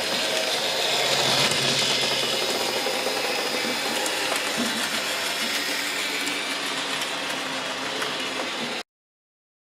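N gauge model locomotive running on the layout: a steady small-motor whir mixed with wheel-on-rail noise, cutting off suddenly near the end.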